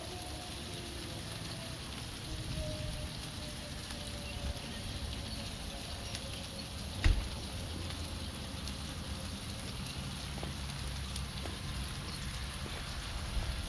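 Meatloaf burger and buns sizzling steadily on the cooktop, with one sharp knock about seven seconds in.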